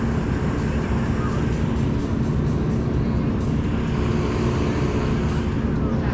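Steady drone of motor-vehicle engines running, unchanging in pitch.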